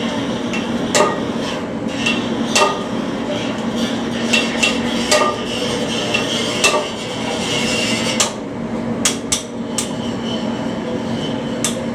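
Hammer blows on metal turbocharger parts during dismantling: about ten sharp, ringing strikes at irregular intervals, over a steady low hum.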